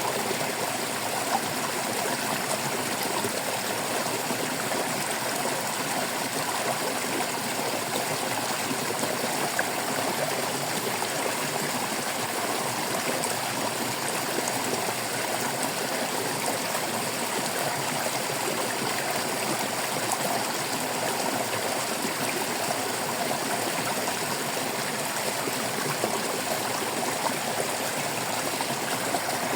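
Stream water babbling and trickling over rocks, a steady, even rush.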